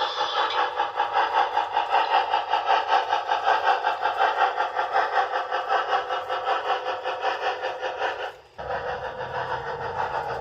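H0-scale model train running on the track: a steady, even clatter of about five beats a second. It drops out briefly near the end, then picks up again with more low rumble.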